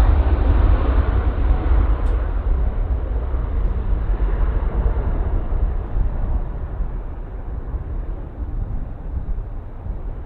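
Jet airliner's engine noise, a deep rumble that slowly fades and dulls as the aircraft moves away.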